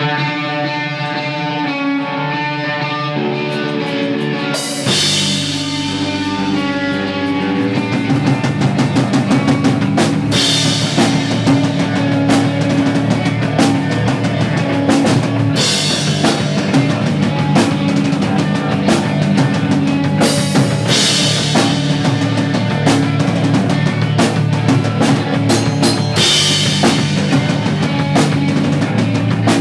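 Live pop punk band playing: electric guitar alone for the first few seconds, then drums and the full band come in about five seconds in and play on.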